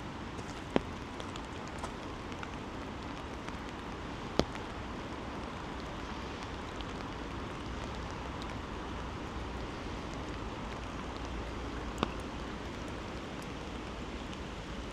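Steady rain falling, with three sharp taps standing out above it, about one second in, a few seconds later and near the end.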